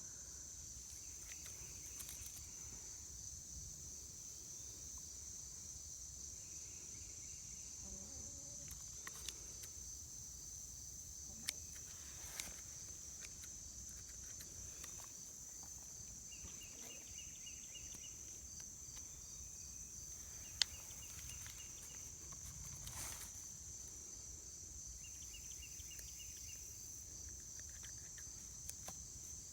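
Crickets trilling steadily in a high, continuous chorus. Now and then there is a short run of quicker, lower ticks, and a few faint clicks.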